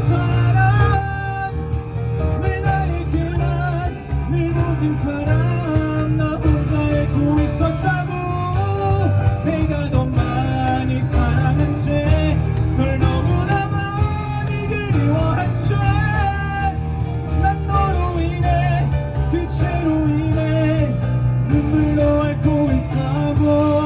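A live band playing: electric guitars, bass guitar, keyboard and cajon, with a melody line moving over a steady beat.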